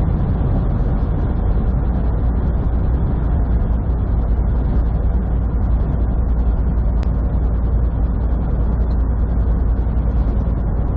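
Semi truck cruising at highway speed, heard from inside the cab: a steady, low drone of diesel engine and road noise.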